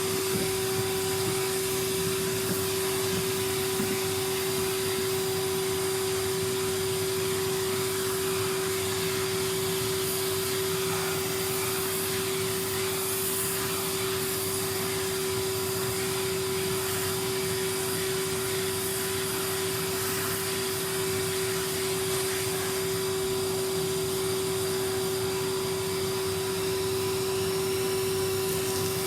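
Numatic Henry canister vacuum cleaner running steadily: a constant rush of air with one steady pitched hum, unchanging throughout.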